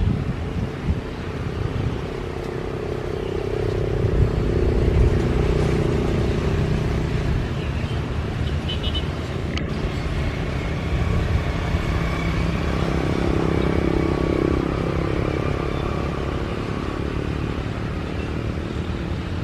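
Steady low engine rumble that swells twice, with a thin steady whine coming in about halfway through.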